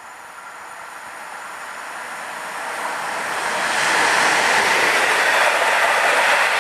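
ED160 electric multiple unit (Stadler FLIRT) passing at speed: the running noise of its wheels on the rails swells steadily as it approaches and is at full loudness from about four seconds in, as it goes by close at hand.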